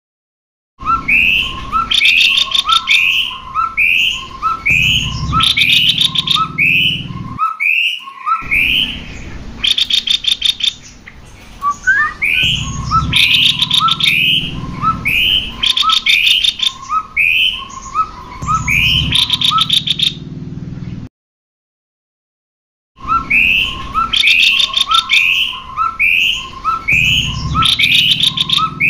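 Recorded song of male and female cucak kopi (kopi-kopi) birds: a rapid, unbroken run of repeated chirping calls, mixed with buzzier, harsher notes. It cuts to silence briefly about 7 seconds in and for about two seconds near 21 seconds in, then resumes.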